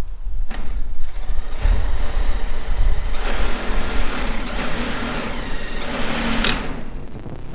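A motor running with a dense, grainy mechanical sound. It turns harsher and louder about three seconds in, with a sharp knock at about six and a half seconds.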